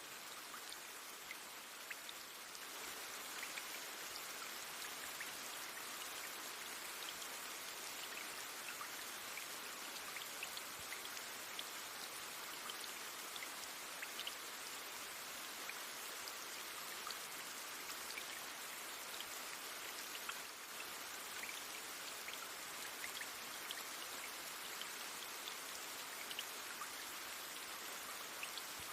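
Steady rain falling as an even hiss, with individual drops heard as scattered small ticks.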